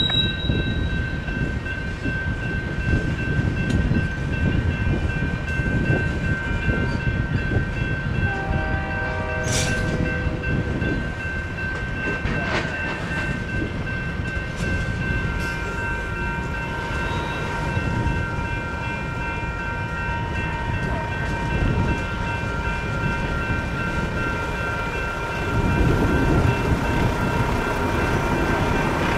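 Freight cars rolling through a grade crossing, their wheels rumbling on the rails, while the crossing's electronic bell rings steadily throughout. The rumble grows louder again near the end.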